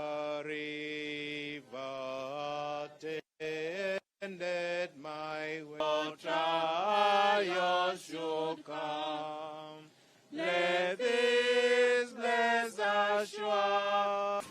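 Voices singing a slow hymn in sustained notes, phrase by phrase with short pauses between. The singing cuts out abruptly twice, briefly.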